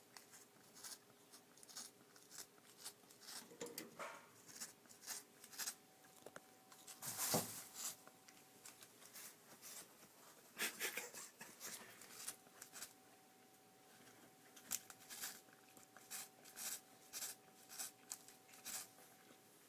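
Faint, irregular rustling, scratching and ticking as cats paw at and bat catnip toys, with a couple of longer scrapes. A faint steady hum sits underneath.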